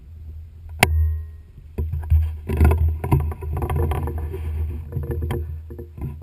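Onboard sound of a rally car picked up by the camera's own microphone: a heavy, steady low rumble. A single sharp knock comes about a second in, then a dense, irregular rattling clatter from about two seconds on.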